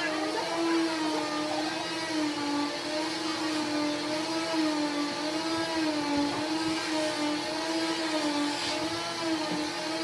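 Electric power tool's motor whirring steadily, its pitch wavering and dipping slightly as the load on it changes, as when it works wood.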